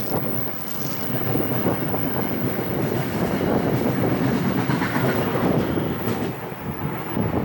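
A train passing, its wheels running on the rails in a steady low noise with a brief dip about six seconds in.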